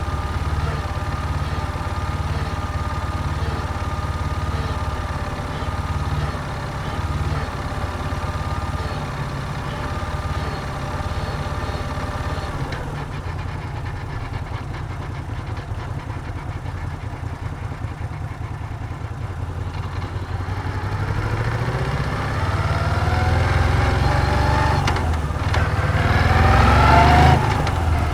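Moto Guzzi V7's air-cooled transverse V-twin running at steady low revs, then settling to a quieter low rumble for several seconds. In the last third it accelerates with a rising pitch; just before the end the pitch drops briefly and climbs again as it pulls harder.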